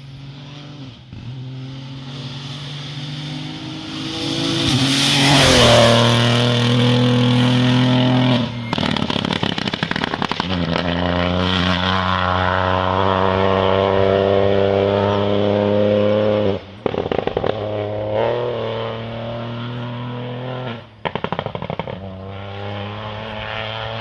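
Rally car engines at high revs driving past, holding steady notes that step up with the gears. The loudest pass comes about five seconds in. Clusters of sharp cracks fall between the engine runs.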